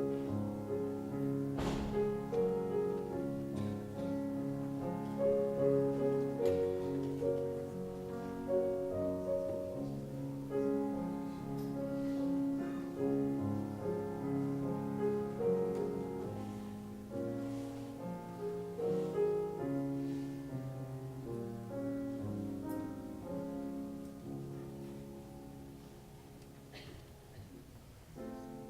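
Slow instrumental piano music, held chords and a melody, growing softer near the end.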